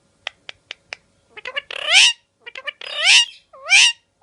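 Parrot calling: a few short clicks, then short chirps leading into three loud, harsh squawks that each rise in pitch.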